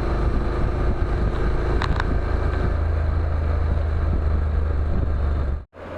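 Motorcycle engine and exhaust running at a steady cruise, a loud low drone, with a short click about two seconds in; the sound cuts off abruptly near the end.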